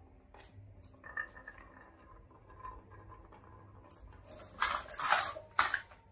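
Marbles clicking and clattering along a marble run: a few separate clicks, then a loud rattling clatter about four and a half seconds in that lasts over a second.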